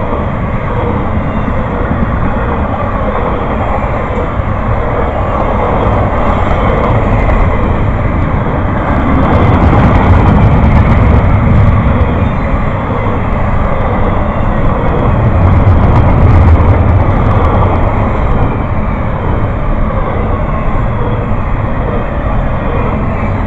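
A train rolling past: steady rumble and rail noise, swelling louder with sharp clatter about ten seconds in and again about sixteen seconds in.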